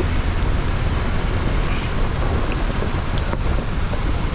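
Jeep Gladiator rolling along a dirt forest road: a steady low rumble from the vehicle mixed with wind noise on the microphone, with a faint click about three seconds in.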